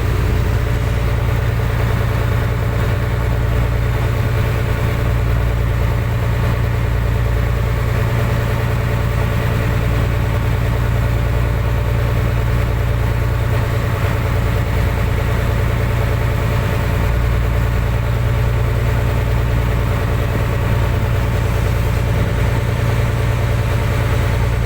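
Fishing boat's engine running steadily at a low, even idle.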